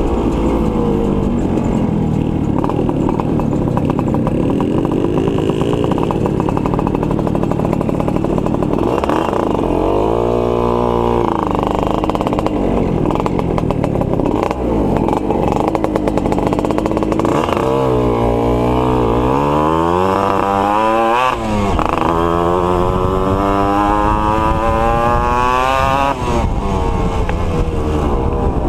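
Two-stroke motorcycle engines running and revving. Several times the engine pitch sweeps up and then drops, as bikes rev and ride past.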